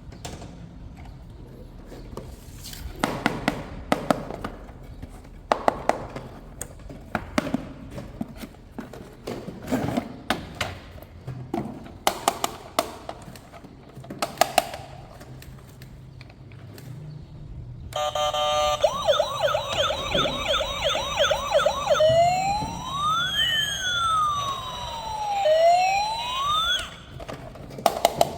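Clicks and knocks of plastic toy handling, then about 18 s in a toy vehicle's electronic siren starts. It gives a fast yelp for a few seconds, then slower rising and falling wails, and stops near the end.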